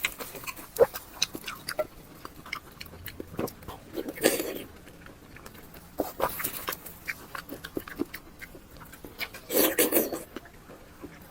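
Close-miked eating sounds: wet chewing, lip smacks and mouth clicks on fatty cured pork, irregular, with two louder slurping smacks about four seconds in and near the end.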